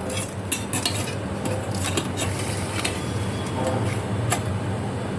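Metal utensils clinking and scraping against a pot or pan in irregular short clicks, over a steady low hum.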